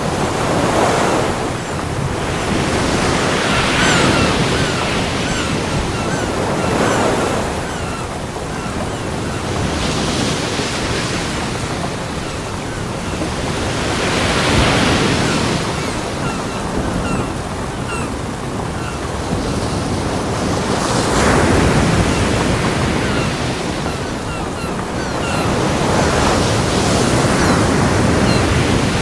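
Ocean surf breaking on a beach: waves wash in one after another every three to seven seconds, each swelling and falling back into a steady hiss of foam.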